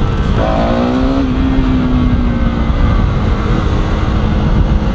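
Motorcycle engine note rising about half a second in, then holding steady for a couple of seconds before fading, over a heavy low wind rumble on the microphone while riding.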